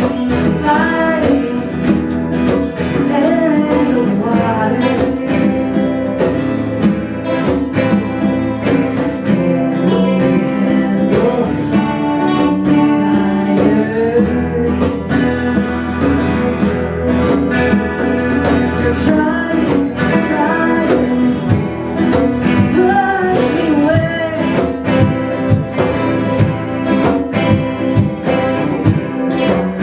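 A small band playing a song live: strummed guitar with singing.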